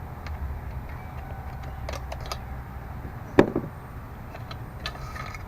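Small metallic clicks and clinks of hand tools working a chainsaw's muffler bolt and nut, with one sharper clank about three and a half seconds in, over a steady low hum.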